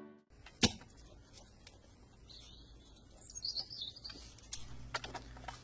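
A sharp click a little over half a second in, then faint bird chirps and song in short wavering phrases.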